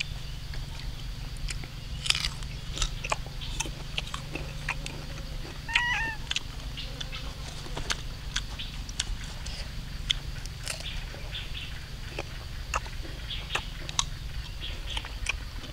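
Someone eating sour fruit close to the microphone: irregular crisp clicks and crunches of biting and chewing, with a brief high-pitched call about six seconds in.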